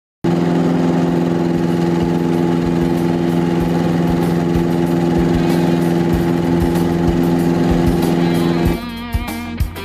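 Piper PA-28 light aircraft's piston engine and propeller running at a steady drone, starting abruptly just after the start. Near the end it cuts off and plucked guitar music takes over.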